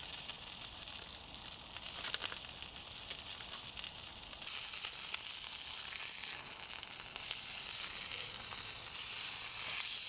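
Food sizzling as it fries over a campfire, a steady high hiss with small crackles. It gets abruptly louder about halfway through and again near the end.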